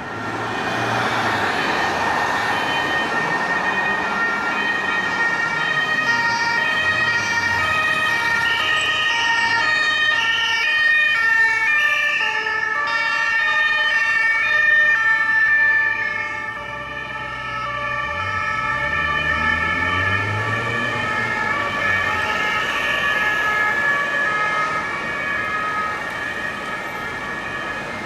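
French police two-tone sirens from a motorcycle escort and police car. Several sirens alternate and overlap continuously. Motorcycle engines rise and fall in pitch beneath them, about 4 seconds in and again about 20 seconds in.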